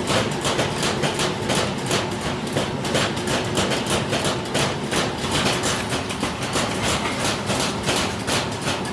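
Rapid, evenly spaced hammering on metal, about four to five blows a second, over a steady machine hum.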